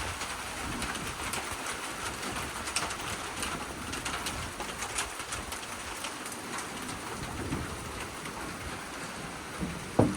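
Rain falling in storm wind, with many small drops pattering and ticking close by, and one sharp knock near the end.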